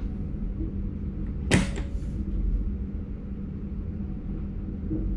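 Cab of an NS Sprinter Light Train electric train: a steady low rumble and hum, with one sharp short clack and brief hiss about a second and a half in.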